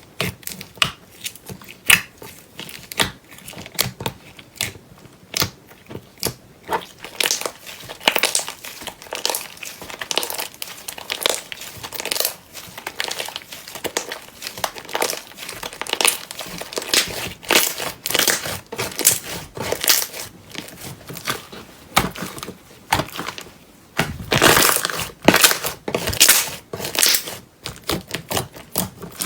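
Hands squeezing and poking slime, giving a dense, irregular run of wet crackling and popping clicks, thickest near the end.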